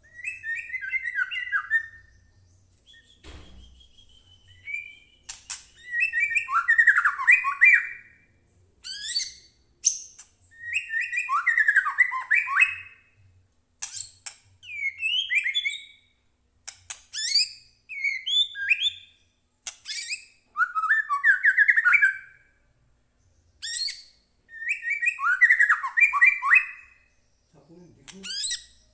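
White-rumped shama singing: a loud varied song in phrases repeated every few seconds, each mixing a rapid trill with sharp, very high notes.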